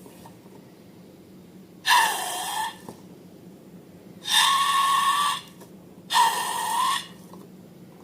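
Air rushing out of a balloon's neck in three short bursts, each an airy hiss with a held pitch, about two seconds in, near the middle and about six seconds in.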